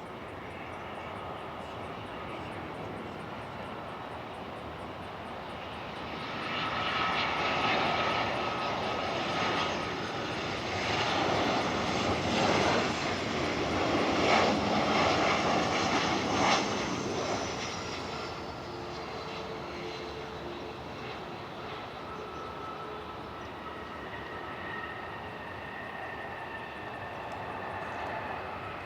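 Boeing 737-700 jet passing on its landing, the engine noise swelling about six seconds in, loudest around the middle, then fading, with a high whine that falls in pitch as it goes by.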